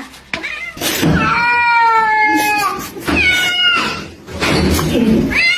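Domestic cat meowing in long, drawn-out yowls, slightly falling in pitch: a long call of nearly two seconds, a shorter one, and a third beginning near the end.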